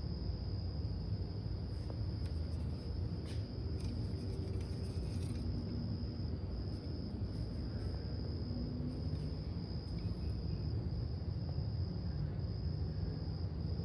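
Steady high-pitched insect trill over a constant low rumble, with a few faint clicks about two to five seconds in.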